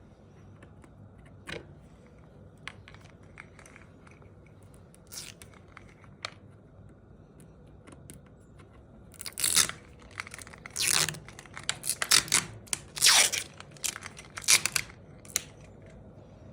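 Scattered light clicks and knocks, then a run of loud, rough ripping noises, each under a second long, from about nine to fifteen seconds in.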